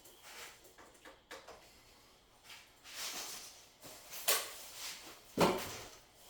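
Packaging and a boxed item being handled: rustling and scraping, with a sharp knock about four seconds in and a heavier thump about five and a half seconds in.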